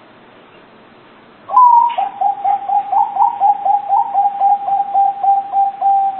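Zebra dove (local perkutut) cooing: about a second and a half in, one higher opening note, then a rapid run of short coos, about four a second, with the last one held.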